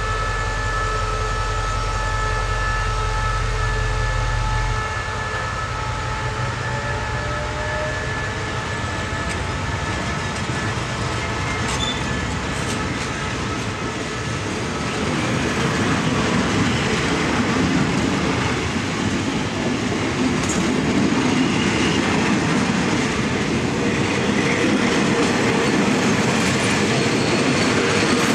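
Diesel locomotive D.5211, an SRT CSR-class engine, hauling a parcel freight train through the station. A steady low engine hum for the first few seconds gives way to the rumble and wheel clatter of the passing wagons, which grows louder from about halfway.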